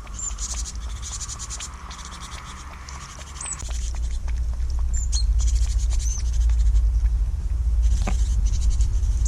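A few short, high chirps from small birds, over dense fine ticking and a loud low rumble that swells about three and a half seconds in.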